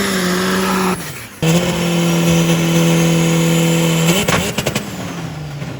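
Drag race car engine held at steady high revs. The note breaks off abruptly about a second in, then holds steady again before dropping away near the end.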